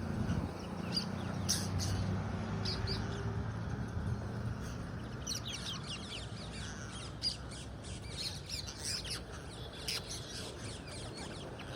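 A flock of rose-ringed parakeets calling with short, high squawks, scattered and overlapping, busiest a little past the middle, over a low background rumble.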